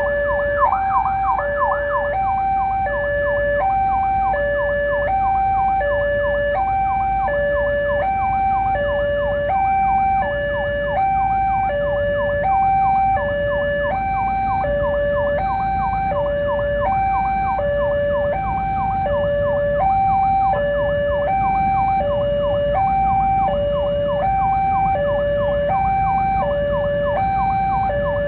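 Railway level-crossing warning alarm sounding: an electronic signal alternating steadily between a higher and a lower tone, each held for under a second, with quick rising chirps between them and a low steady rumble beneath. It is the signal that a train is approaching the crossing.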